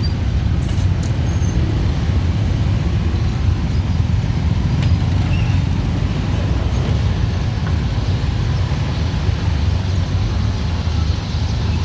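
Dense city traffic of motorbikes and cars, a steady engine and road rumble without a break.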